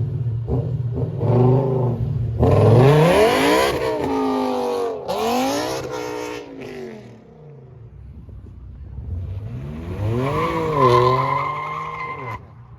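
BMW M5's V10 engine revving and accelerating hard away, its pitch climbing and dropping again several times with the gear changes. After a quieter stretch, the engine pitch rises and falls once more near the end.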